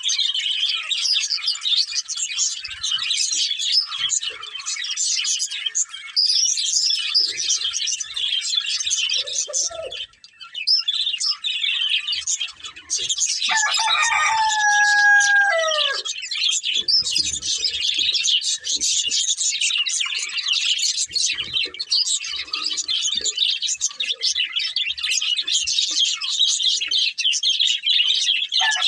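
A pair of budgerigars chirping and chattering without a break. About halfway through, a lower, drawn-out call with a falling end lasts a couple of seconds over the chirping.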